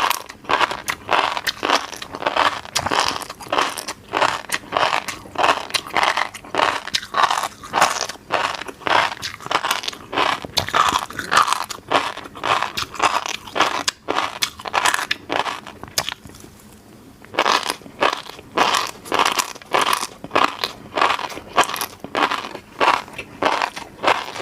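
Close-miked eating of fish roe: a fast, dense run of crunchy popping and chewing sounds, with a short pause about two-thirds of the way through.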